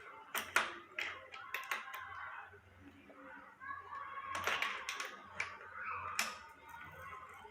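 Irregular sharp clicks and knocks of metal parts being handled while a wheelchair wheel and its bearings are worked on.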